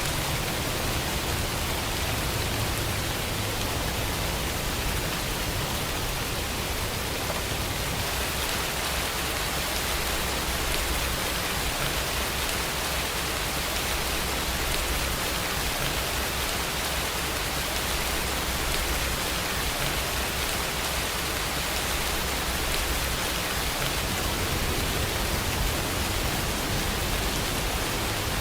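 Steady, even rain falling: a dense hiss of countless drops, without separate drips or thunderclaps.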